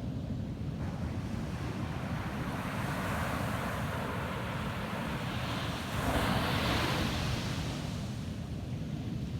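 Ocean surf breaking on a beach: a wave's wash swells from about two seconds in, is loudest around six seconds, and dies away near the end, over a steady low rumble of wind on the microphone.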